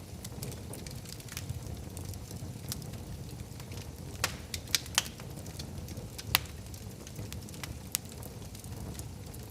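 Wood fire crackling in a fireplace: scattered sharp pops and snaps over a low steady rush of flames, with a few louder pops around the middle.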